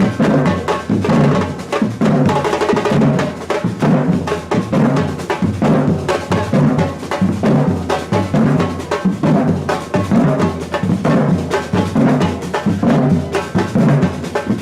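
Batucada samba drum group playing: deep bass drums beat a steady pulse under fast snare and other percussion strokes.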